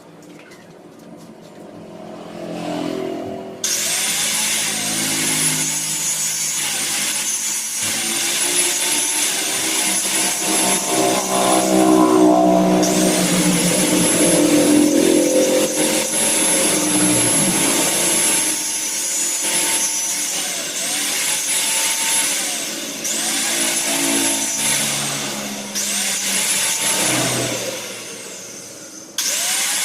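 A small power tool's motor whining, run up to speed and let off again in repeated bursts of a second or two to several seconds, with one long run in the middle.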